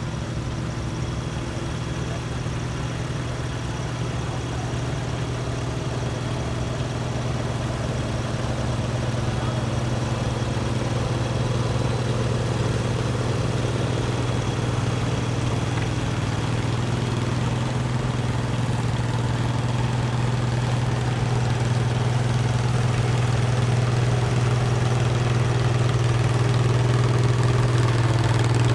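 Antique tractor engine running steadily at low speed, its hum gradually growing louder.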